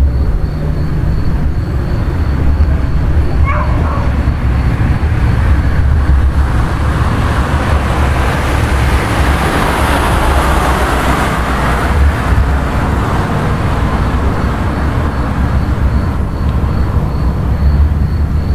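Steady, loud low rumble of a vehicle in motion, with a swell of rushing noise in the middle.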